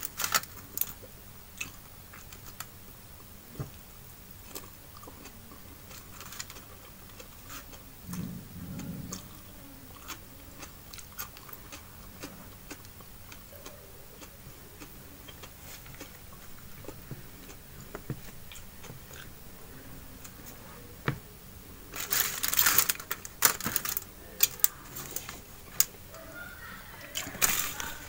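Close-up chewing of rice and fried fish, with small wet mouth clicks. Two louder runs of crackling come about 22 seconds in and again near the end, as the fried fish is handled on its crinkling aluminium foil.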